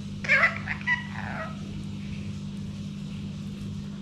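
Indian ringneck parrot giving a short, high-pitched talking phrase in its mimicked human voice, in the first second and a half, over a steady low hum.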